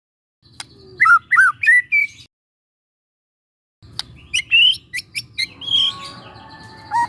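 Young white-rumped shama singing: a short phrase of quick, gliding whistled notes with sharp clicks, then a gap of about a second and a half of silence, then a longer phrase that ends in a held whistle with buzzy notes underneath.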